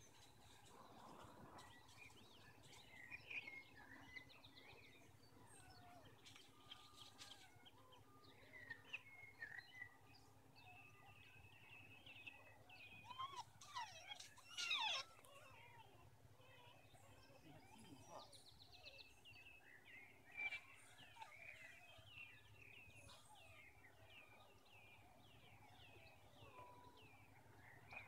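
Faint garden birdsong: short high chirps and trills scattered throughout, over a steady low background hum, with a louder burst of calls about fifteen seconds in.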